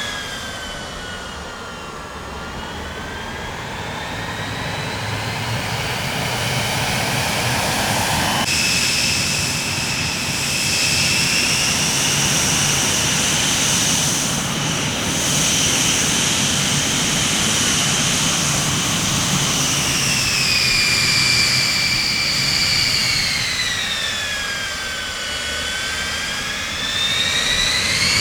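Jet airliner engines running with a loud rush and a high whine that slowly sinks and rises in pitch. There is a sudden jump in the sound about eight seconds in.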